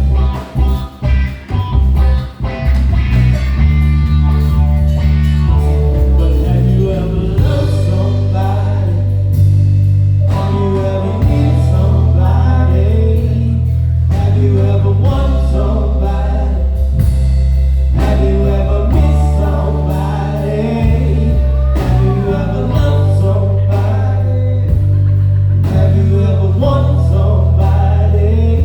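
Live band music: bass guitar, drums and keyboards with a lead melody line over them. The first couple of seconds are choppy and stop-start, then the band settles into steady playing.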